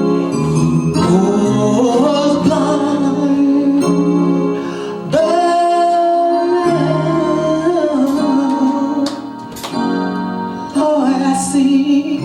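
Slow music with a voice singing long held, wavering notes over instrumental accompaniment.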